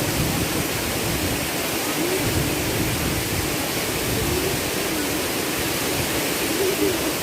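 Waterfall pouring into its pool, a loud, steady rush of falling water.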